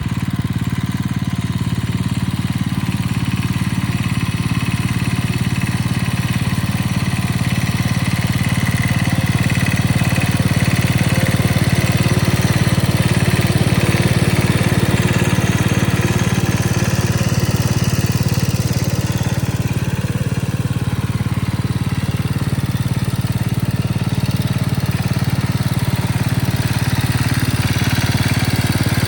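1943 Gibson tractor's small engine running steadily, growing a little louder about halfway through.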